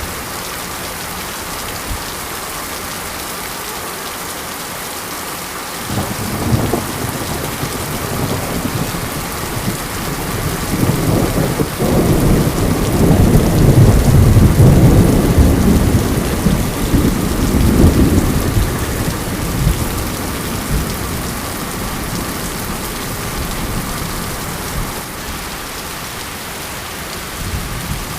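Steady monsoon rain with a long roll of thunder that starts about six seconds in, swells to its loudest in the middle, and dies away.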